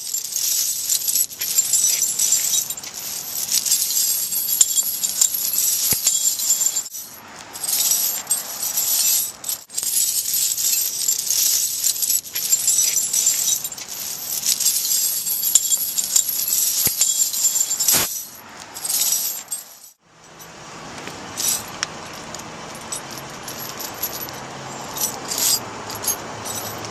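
Steel tire chains jingling and clinking as they are handled and laid out, with a loud, dense jingle for most of the stretch. About twenty seconds in it gives way to quieter, scattered clinks over a steady background.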